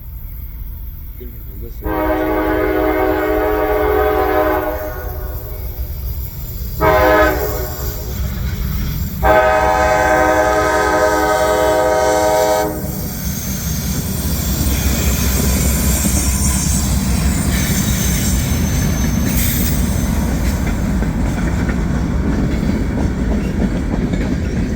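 Nathan K5LA five-chime air horn on a CSX GE CM44AC freight locomotive sounding three blasts, long, short, long. Then a steady low rumble of the diesel locomotives and freight cars passing, with wheels clicking over the rail joints.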